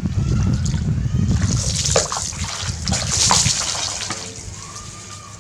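Bath water splashing and sloshing as a baby monkey is washed, loudest in the middle, over a low rumble in the first two seconds, then fading.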